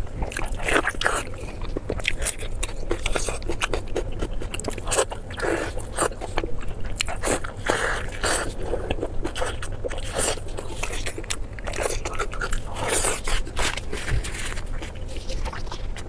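Close-miked eating: a person biting and chewing food, with crunching and scraping in quick, irregular crackles.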